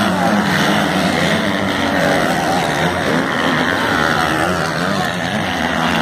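Several racing motorcycles' engines running hard together, their pitches rising and falling as the riders rev and shift.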